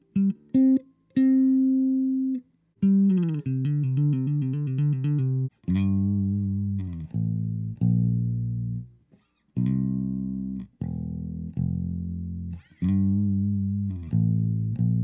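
Electric bass guitar played alone: a funk riff of short, clipped notes with sudden stops between them and a few longer held notes, several struck with a sharp, bright attack.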